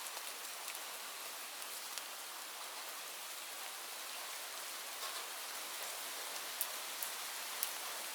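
Steady rain hiss, with a few sharp pops from a crackling wood fire in a fireplace, the clearest ones past the middle.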